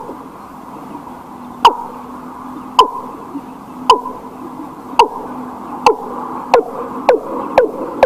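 A bird calling a series of short hoots, each with a sharp start and a quick drop in pitch, the hoots coming closer and closer together toward the end, over a faint steady hum.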